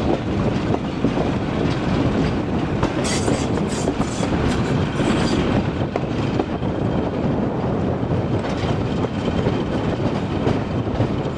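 Train hauled by British Rail Class 14 diesel-hydraulic locomotive D9531 running at steady speed, heard from the leading carriage: a continuous rumble of the locomotive's engine and wheels on the rails, with the clack of rail joints.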